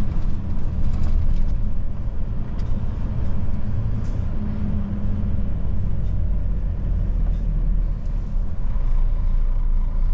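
Old Mercedes truck's diesel engine running steadily while driving, its sound mostly low-pitched.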